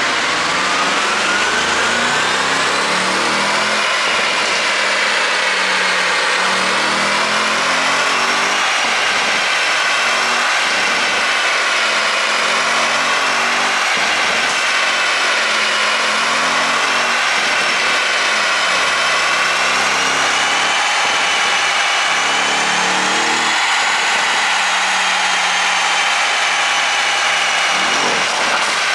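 Audi RS7's 4.0 TFSI twin-turbo V8, on a pop-and-crackle ECU tune, running with its revs rising and falling gently and at a steady loudness.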